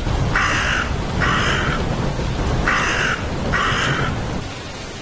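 A crow cawing: four harsh caws, in two pairs, over a steady low background rumble.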